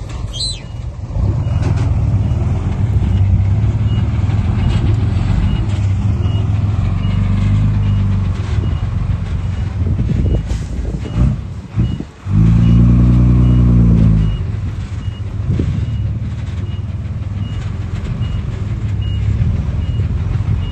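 Heavy diesel earthmoving machine running under load, revving up hard for a couple of seconds about midway. A faint reversing alarm beeps at an even pace through most of it.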